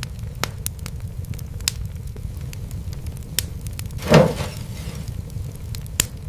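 Fireplace wood fire crackling, with scattered sharp pops over a steady low rumble. A louder, longer pop comes about four seconds in.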